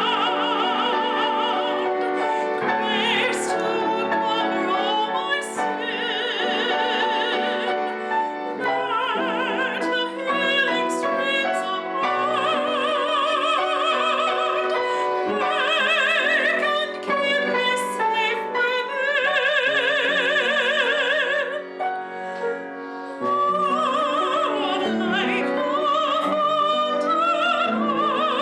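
Operatic-style solo singing with a wide vibrato on long held notes, accompanied by piano.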